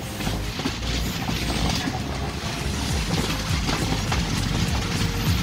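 Passenger train coach running along the track, heard from an open window or doorway: a steady rumble with the wheels clattering and knocking over the rails and the coach rattling.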